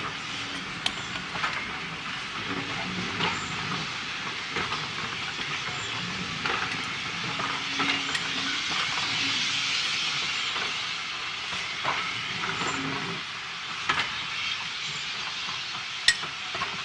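Passenger coaches of a steam-hauled train rolling past: a steady rushing hiss of wheels on rail, broken by uneven clicks and clunks as the wheels cross rail joints.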